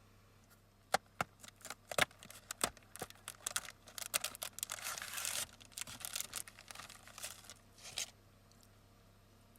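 Rustling and crinkling of something being handled, like plastic or paper packaging, with a few sharp clicks. It starts about a second in, is densest in the middle and stops at about eight seconds.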